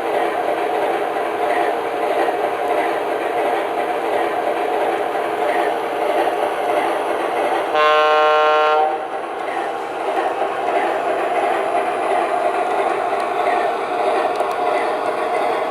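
The digital diesel engine sound of an MTH RailKing O gauge RS-3 model locomotive's Proto-Sound 2 system running steadily through its small speaker, with one horn blast about a second long about halfway through.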